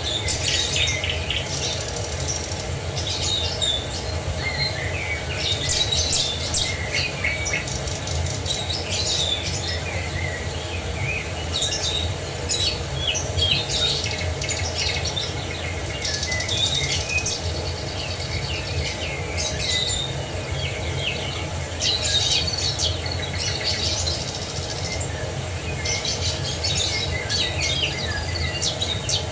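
Several songbirds chirping and trilling over one another, over a steady rush of falling water.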